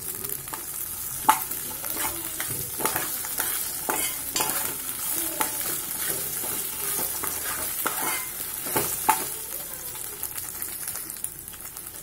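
Ivy gourds (tendli) frying in oil in a metal pan, sizzling steadily while a steel spoon stirs them, scraping and knocking against the pan at irregular moments.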